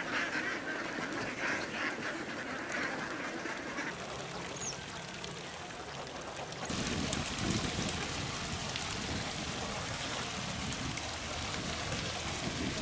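A flock of domestic ducks quacking, loudest in the first few seconds. About seven seconds in, the sound cuts abruptly to a steady rushing noise with a low rumble.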